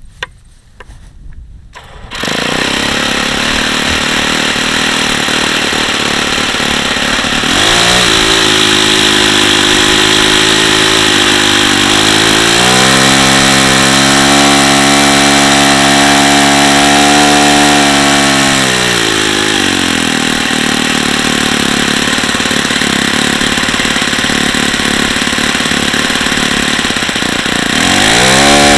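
Saito FA-45 four-stroke glow model airplane engine starting about two seconds in and running, throttled up to higher RPM twice and eased back down in between, then opened up again near the end. This is an original ringless ABC engine the owner says has very bad bearings.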